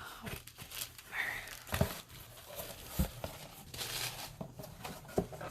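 Packaging crinkling and rustling as items are handled, with a few sharp knocks of objects being set down.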